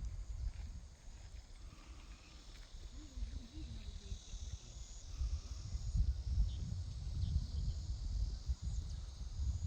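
Outdoor ambience: low rumble from wind buffeting the microphone, which grows louder in the second half, over a steady high insect chirring.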